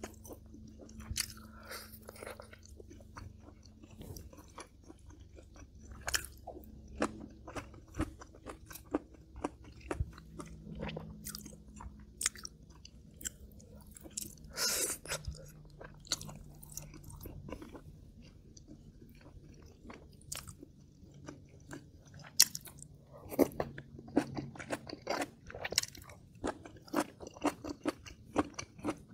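A person chewing and crunching a mouthful of Korean home food, kimchi-braised pork ribs and side dishes, close to the microphone, with irregular wet clicks and smacks. The sounds come in louder bursts about halfway through and again in the last few seconds.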